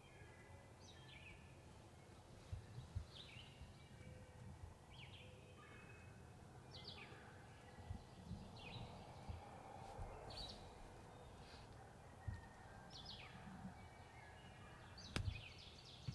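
A songbird singing short, falling phrases over and over, about one every second or so, faint against a quiet woodland background. Scattered soft low thumps and a sharp click near the end are heard under it.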